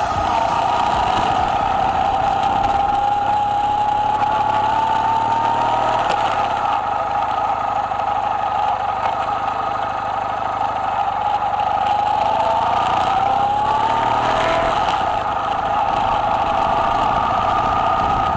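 Kawasaki W800's air-cooled parallel-twin engine, fitted with an aftermarket muffler, running while riding. The pitch climbs slowly and drops back about six seconds in and again near fourteen seconds, as the engine speed rises and falls.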